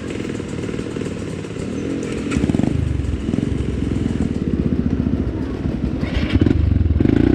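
Off-road motorcycle engine running at low revs, with the throttle opened up about two seconds in and again near the end.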